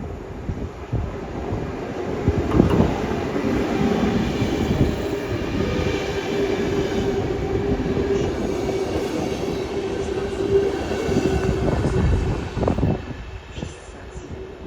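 Bombardier Traxx MS3 electric locomotive and its passenger coaches rolling into a station and slowing, wheels knocking over rail joints under a steady whine that runs most of the time and fades near the end.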